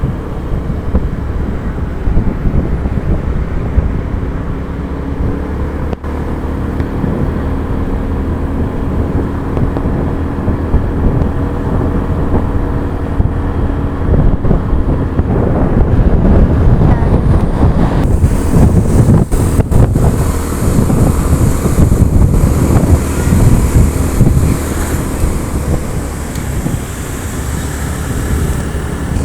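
Motorcycle engine running steadily on the move, with wind buffeting the microphone; the wind rush grows louder about halfway through.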